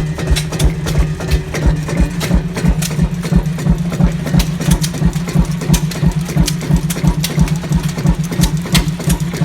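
Fairbanks-Morse single-cylinder two-stroke diesel stationary engine running steadily at slow speed, its big thumping firing strokes coming about four to five times a second over a steady low hum.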